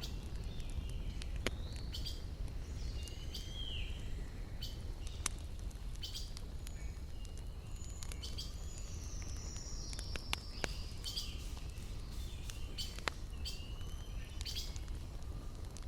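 Wood fire crackling, with irregular sharp pops over a steady low rumble, while small birds chirp with short rising and falling calls.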